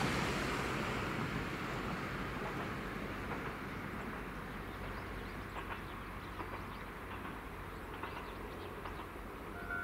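Tenryu-Hamanako Railroad diesel railcar running along the line in the distance, its low rumble and wheel noise slowly fading as it moves away. Faint scattered clicks come in over the second half.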